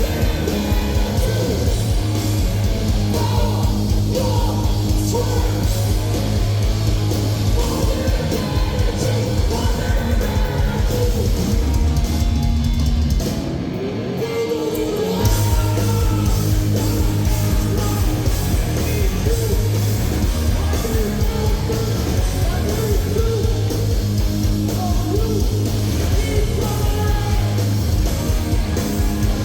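A heavy rock band playing loud and live, with distorted guitar and yelled vocals. About halfway through the low end drops out for a couple of seconds, then the full band comes back in.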